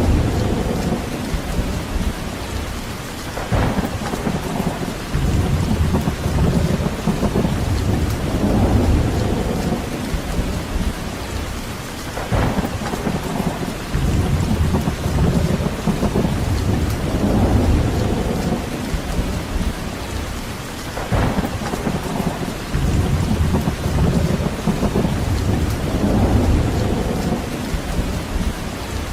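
Steady heavy rain with deep rumbles that swell and fade every few seconds, like rolling thunder or strong wind gusts.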